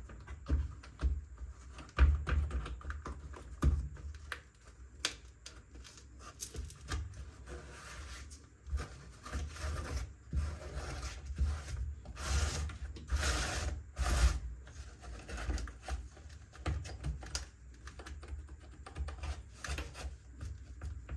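A computer keyboard being cleaned: irregular clicks and taps of keys and plastic, with rubbing and scrubbing. A few longer, noisier strokes come a little past the middle.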